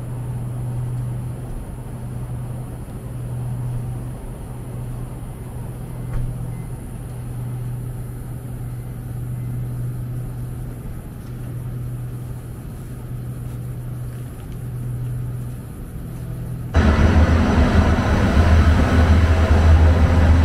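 Steady low hum and rumble of a train in motion. About 17 seconds in it cuts suddenly to a louder, deeper rumble.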